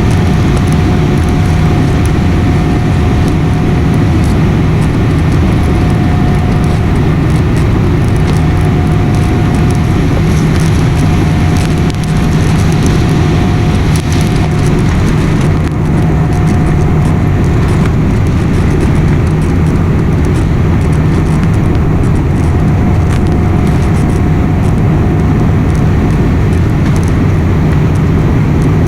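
Jet airliner cabin noise: a loud, steady rumble of engines and airflow with a constant low hum and a faint higher whine.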